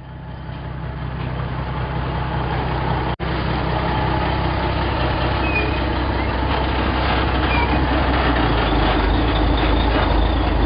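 Transporter truck's engine running steadily with a deep rumble. It swells in over the first two seconds, drops out for an instant about three seconds in, and cuts off abruptly at the end.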